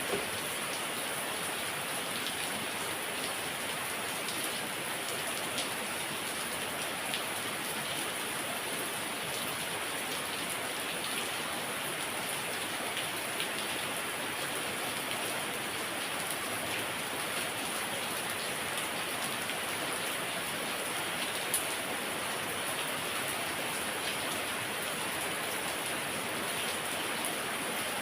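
Heavy rain falling steadily, with scattered drop ticks and one sharper tap about three quarters of the way through.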